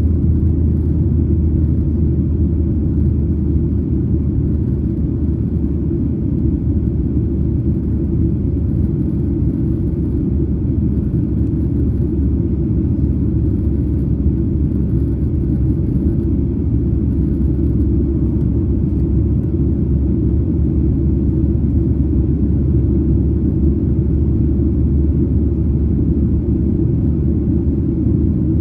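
Steady low rumble of a Boeing 737-900ER heard from inside the passenger cabin: the CFM56 engines and airflow running evenly, with no change in level.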